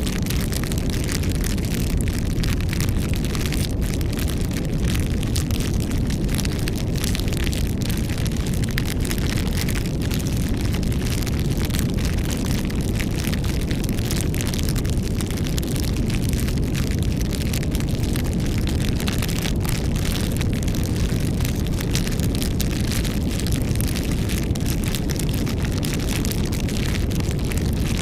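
Wood campfire burning: a steady low rumble of flames with frequent small crackles and pops throughout.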